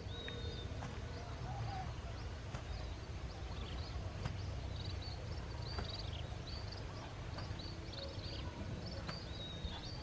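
Small birds chirping in short, high calls, many times over, above a steady low outdoor rumble.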